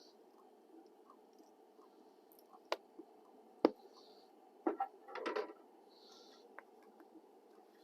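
A few sharp knocks and clatters of camp gear being handled: single knocks about two and a half and three and a half seconds in, the second the loudest, then a short run of rattling clicks around five seconds in.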